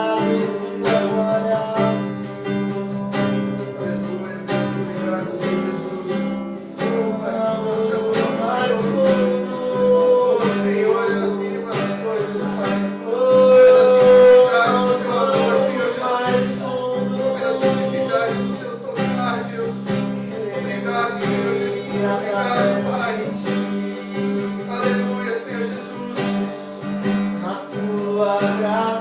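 Acoustic guitar strummed steadily, accompanying voices singing a worship song.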